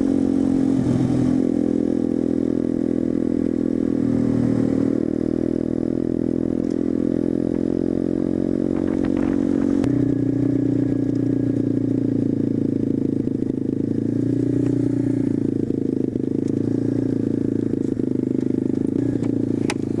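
Small single-cylinder motorcycle engine running at steady, low revs, its pitch shifting slightly about halfway through.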